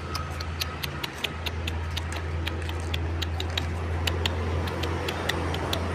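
Irregular light, sharp clicks, several a second, over a steady low hum.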